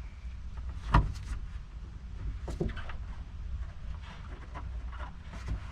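Wind rumbling on the microphone, with a few light knocks and handling sounds, the sharpest about a second in, as rubber grommets are worked into the holes left by a removed rear wiper motor.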